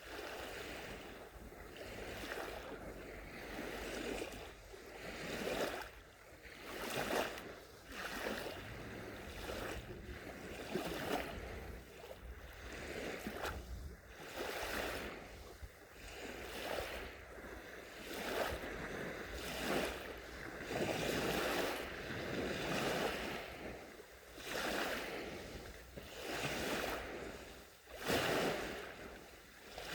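Gentle sea waves washing onto the shore, a hiss that swells and fades every second or two.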